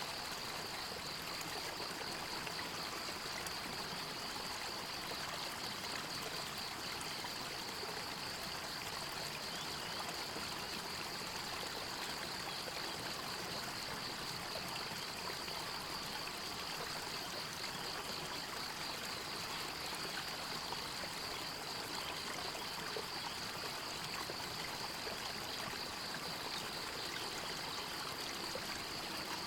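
A small stream trickling and gurgling steadily, with a steady high-pitched, fast-pulsing trill running over the water.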